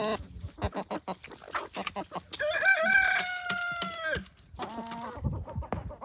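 A rooster crowing once, a single long call of about two seconds that falls off at its end, midway through. Shorter chicken calls and scattered clicks come around it.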